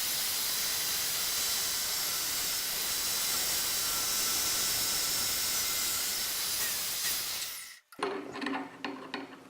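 Homemade wood lathe spinning a workpiece onto a stationary drill bit, boring a hole through it: a steady hiss of cutting with a faint motor whine. It stops suddenly near the end, followed by a few light knocks.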